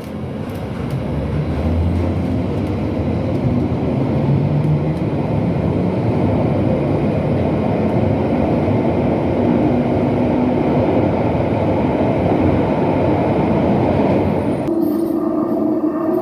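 Bakerloo line 1972 Tube Stock train heard from on board as it pulls away: the traction motor whine rises in pitch over the first few seconds, then settles into steady running noise. Near the end the sound changes suddenly to a Jubilee line 1996 stock train arriving, with a steady hum.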